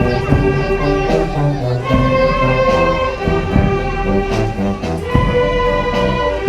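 Symphonic wind band playing a danzón: brass and winds hold sustained melody notes over a repeating bass figure, marked by regular percussion strokes.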